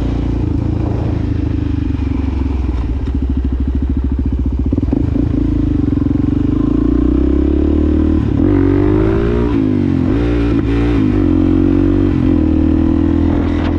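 Suzuki DRZ400SM's single-cylinder four-stroke engine through a Yoshimura exhaust, heard from the rider's seat while riding at steady revs. Past the middle the revs climb, then swing up and down several times before settling back to a steady cruise.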